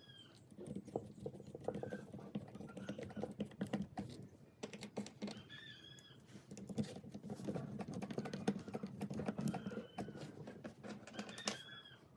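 Irregular light clicking and tapping of small fan parts being handled during restoration work, over a low steady hum. A few short high chirps come and go.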